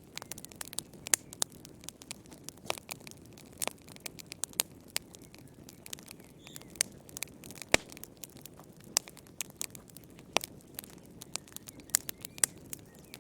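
Wood fire crackling in a fireplace: irregular sharp pops and snaps over a soft low rush of flame, with one louder pop near the middle.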